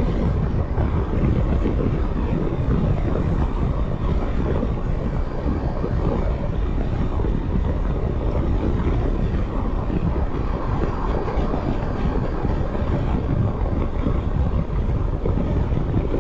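Steady riding noise of a Triumph Tiger 1200 GT Explorer on the move: an even rumble of engine, road and wind with no change in pace.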